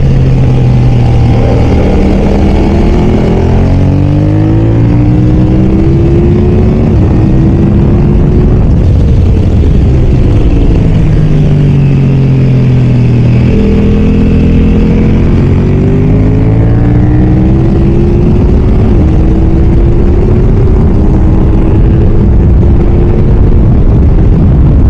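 BMW F900R's parallel-twin engine at full race pace, revving up through the gears with a sudden drop in pitch at each upshift, then falling away on the brakes before accelerating hard again, over a steady roar of wind.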